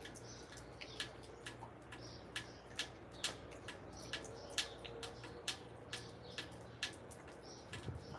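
Small wild birds at a caged seed-block feeder: irregular sharp ticks, two or three a second, of beaks pecking at the seed block and cage, with faint high chirps among them.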